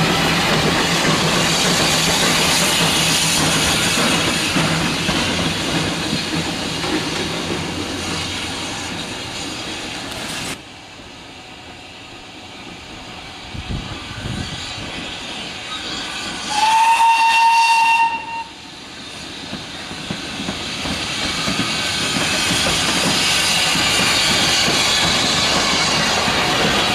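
A short goods train of four-wheeled wagons rolls past with wheel clatter over jointed track, then fades away about ten seconds in. A few seconds later a steam locomotive's whistle sounds once, a steady tone for about a second and a half. The wagons then roll past again, growing louder.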